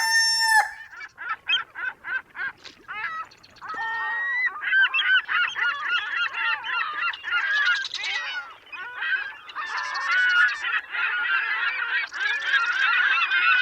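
A flock of birds calling: short pitched calls, scattered at first and then overlapping into a dense chorus from about four seconds in.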